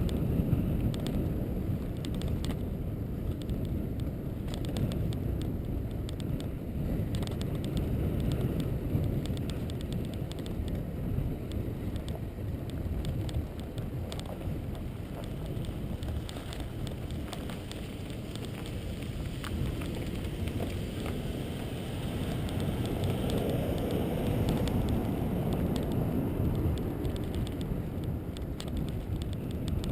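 Steady low rumble of a vehicle travelling over a rough road surface, with small rattles and clicks throughout.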